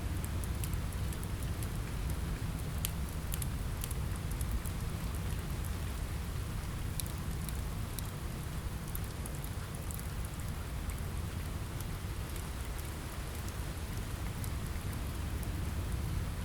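Steady rain falling on a window: an even hiss over a deep low rumble, with scattered sharp ticks throughout.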